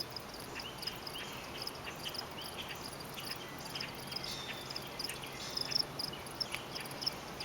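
Faint outdoor chirping from wild creatures: short high-pitched calls repeating over quiet background noise.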